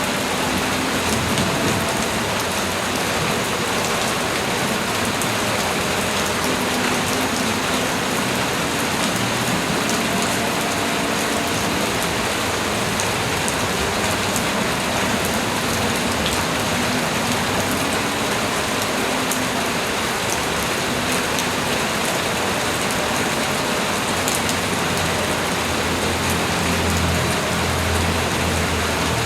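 Light tropical rain falling steadily: an even hiss of rain with scattered drop ticks. A faint low drone comes in near the end.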